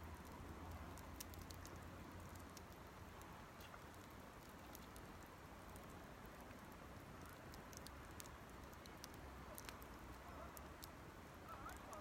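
Small campfire of Japanese cedar twigs and leaves burning, with faint, sparse, irregular crackles and pops over a soft low hiss.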